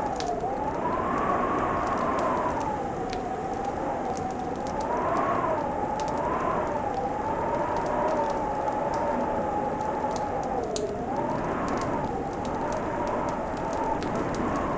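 Wood fire crackling in a fireplace, with sparse sharp pops over a steady hiss. A whistling tone wavers slowly up and down throughout.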